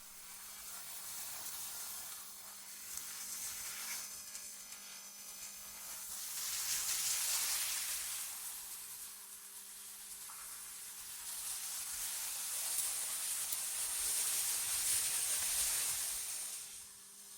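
Synthetic wind ambience: a high, airy hiss that swells and fades in slow gusts, loudest about seven seconds in and again near the end before it drops away, over a faint steady low hum.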